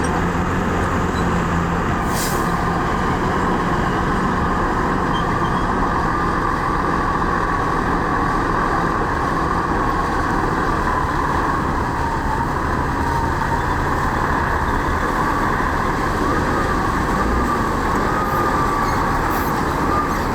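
Heavy diesel earthmoving machinery running steadily, with a wavering whine over the engine and a brief hiss about two seconds in.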